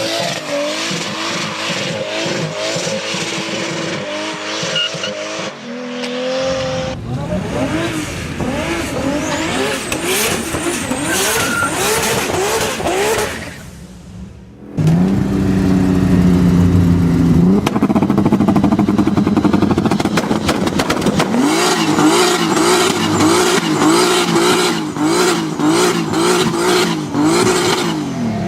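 Loud performance car engines being revved in a run of different clips, the engine note rising and falling again and again. A brief quieter gap comes about halfway through, then a steadier engine note that breaks into more repeated revving.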